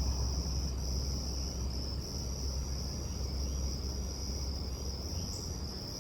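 Insects singing in a steady high buzz that dips briefly about once a second, over a low rumble.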